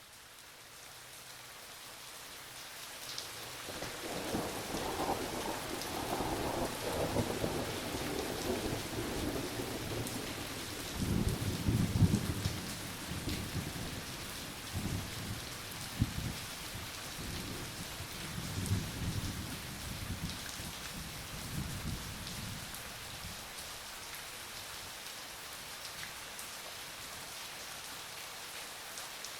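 Steady rain fading in, with rolling thunder underneath: rumbles build to the loudest peal about twelve seconds in, a sharp crack comes a few seconds later, and a last few rumbles die away, leaving just the steady rain.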